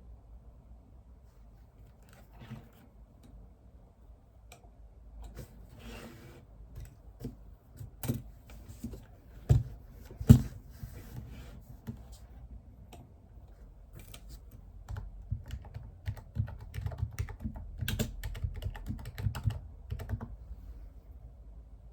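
Typing on a computer keyboard: irregular key clicks, sparse at first and then in quick runs, with two louder knocks about ten seconds in.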